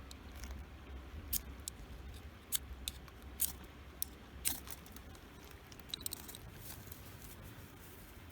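Ferrocerium fire-starter rod being struck with a scraper to throw sparks: a string of short, sharp scrapes at irregular intervals, most of them in the first half, over a low steady rumble.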